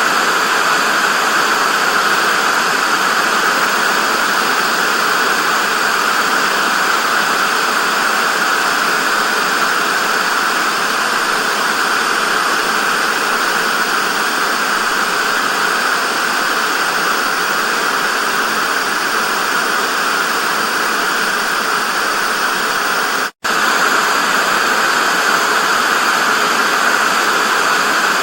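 Television static: a steady, even hiss of white noise, broken once by a split-second dropout to silence late on.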